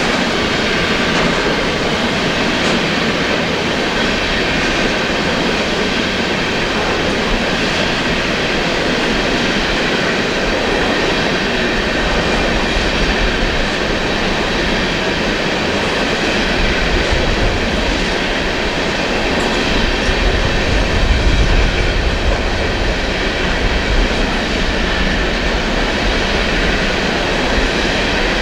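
Coal train cars rolling past, steel wheels rumbling and clacking over the rail joints, with a faint thin squeal of wheels on rail. The low rumble swells for a few seconds past the middle.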